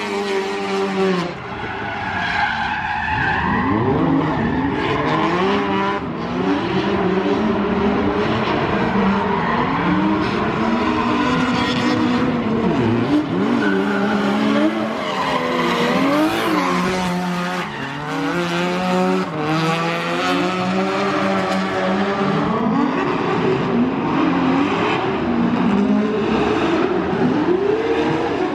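Drift car engines revving hard and falling away again and again, with tyres skidding and squealing through a drift run.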